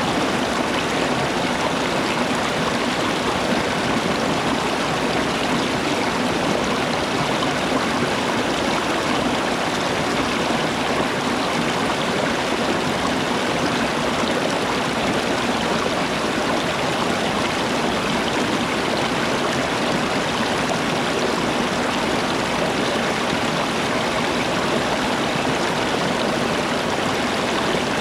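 Running water: a steady, even rush that does not change in level.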